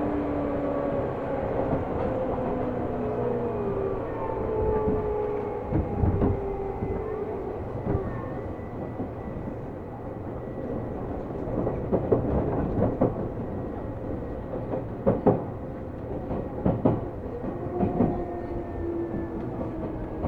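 Seibu New 2000 series electric train running, heard from inside the car: steady rumble of wheels on rail, with the traction motors' whine falling slowly in pitch over the first few seconds. Later comes a run of sharp clacks as the wheels cross rail joints, and the motor whine is heard again near the end.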